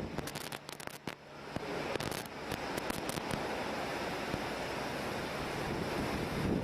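Steady rush of the Tonda River running in flood after a typhoon. A cluster of sharp crackles and pops comes in the first couple of seconds.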